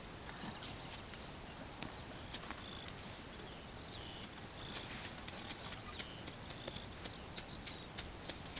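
Outdoor ambience of a repeated high chirping call, short notes about twice a second, with scattered sharp clicks and crackles that come more often from about two seconds in.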